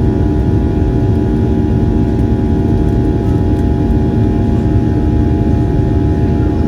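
Boeing 737 jet engines and airflow heard from inside the passenger cabin: a steady, loud drone with several even humming tones over it.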